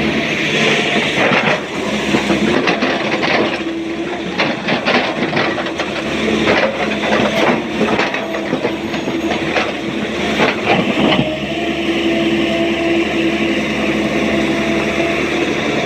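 SANY excavator's diesel engine and hydraulics running steadily, with a run of clattering impacts from about three to eleven seconds in as rock is loaded into a dump truck's steel body.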